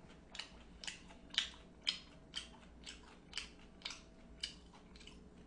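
Close-up chewing of crispy breaded pork cutlet (tonkatsu), a steady run of crunches about twice a second.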